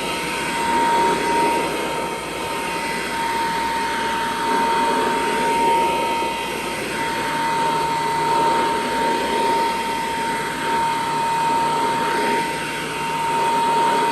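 1935 Kirby Model C upright vacuum cleaner running on carpet: a steady motor-and-fan whine with one high tone held through it, the sound swelling and easing every second or two.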